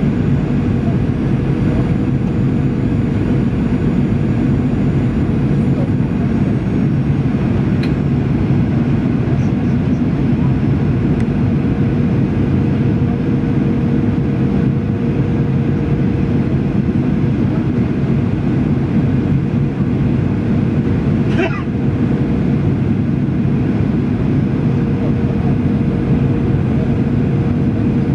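Steady cabin noise of a jet airliner on its descent: engine and airflow roar, heaviest in the low range, with a constant hum tone through it.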